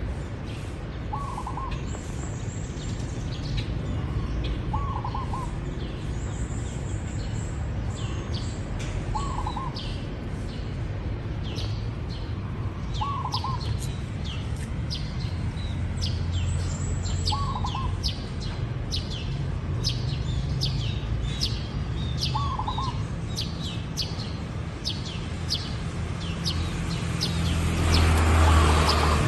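Zebra dove cooing, a short call about every four seconds, six times in all. Other small birds chirp steadily over a low rumble, which swells louder near the end.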